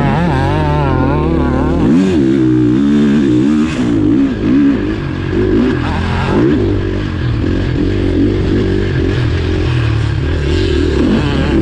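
Motocross bike engine heard from an onboard camera, its revs rising and falling every second or two as the throttle opens and closes and the gears change.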